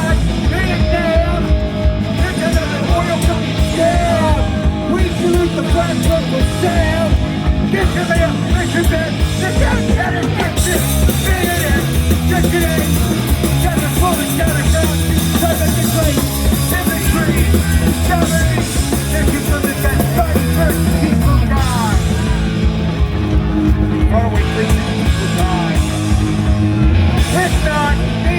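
Live hardcore punk band playing loud and fast, with shouted vocals over distorted guitars, bass and drums, recorded from the audience.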